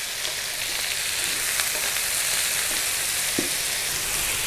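Diced onion and garlic sizzling steadily in hot oil in a frying pan, with a few faint taps of metal tongs.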